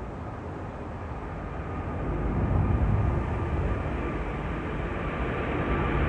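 Jet engine noise from an Emirates Airbus A380's four engines: a steady rumble with a faint high whine, growing louder about two seconds in.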